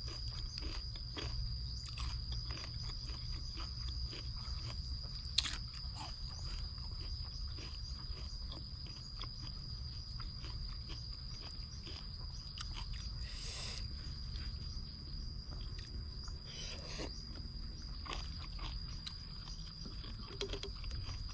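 Close-miked chewing and crunching of a spicy salmon salad, with many small clicks and bites, over a steady high-pitched whine.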